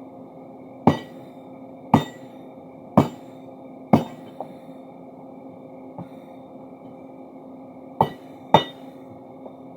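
Forging hammer striking steel crowbar stock with sharp ringing blows: four evenly spaced strikes about a second apart, then two in quick succession near the end. A steady motor hum runs underneath.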